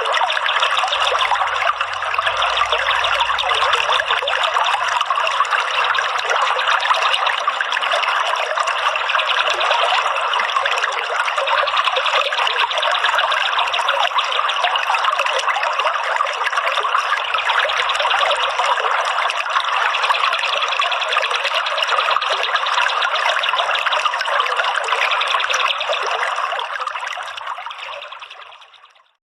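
Steady trickling, running water, fading out over the last couple of seconds.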